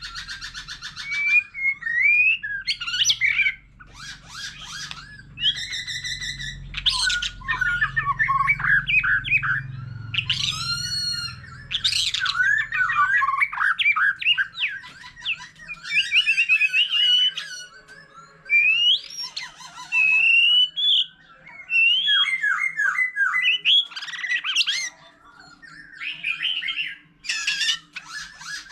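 White-rumped shama singing a long, varied song of whistled glides, fast trills and rough buzzy notes, phrase after phrase with only short pauses.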